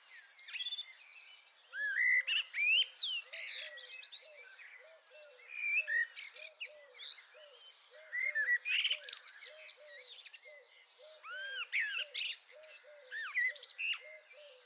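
Several small garden birds chirping and calling over one another, short quick notes in irregular clusters, with a lower note repeating steadily about twice a second beneath them.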